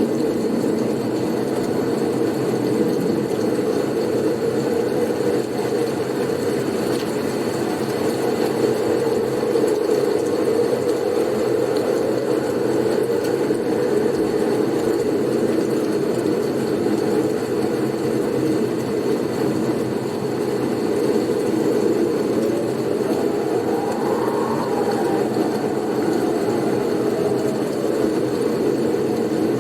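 Blizzard wind: a steady low rushing, with a faint whistle that rises and falls about three-quarters of the way through.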